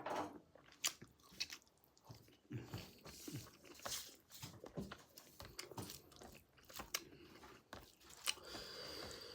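A person chewing and biting pork close to the microphone, with wet mouth smacks and crunches.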